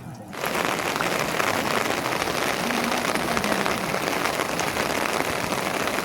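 Steady rain falling, a dense hiss of fine drop ticks that starts a moment in.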